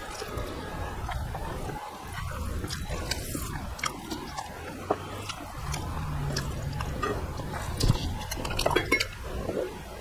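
Close-miked eating sounds of a man eating rice and vegetable curries with his hand: chewing, with scattered small clicks and the squish of fingers working rice on the plate. A cluster of sharper clicks comes near the end.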